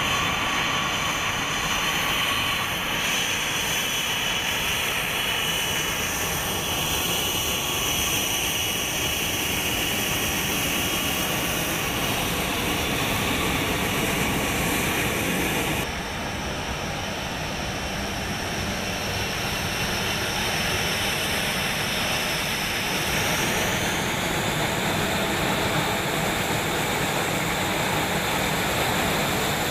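Jet aircraft engine noise, a steady roar with a faint high whine. It changes abruptly about halfway through, and the whine rises slightly later on.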